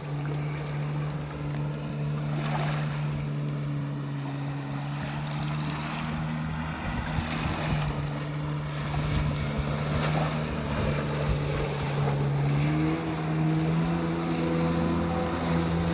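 Watercraft engine running steadily, its pitch stepping up about thirteen seconds in, over the rush of water and wind on the microphone.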